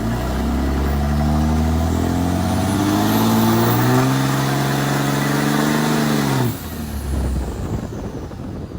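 Truck engine accelerating hard under load, its pitch climbing and then easing, dropping away sharply about six and a half seconds in to a lower, rougher engine sound.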